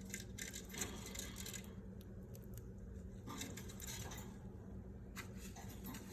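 Pet budgies making faint bursts of clicking and scratching, twice, each lasting about a second, over a low steady hum.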